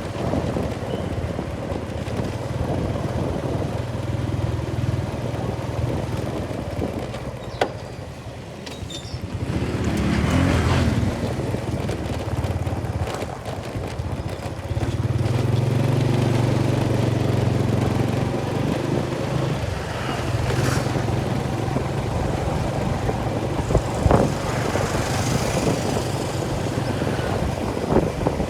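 An engine running steadily with a low hum, with a few short sharp knocks.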